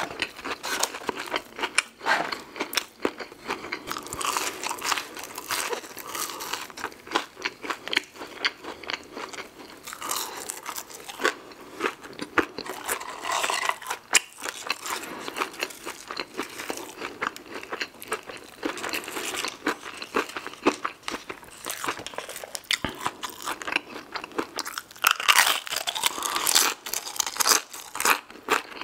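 Close-miked crunching and chewing of crisp fried food, cajun fries and tortilla chips, with many sharp crunches throughout.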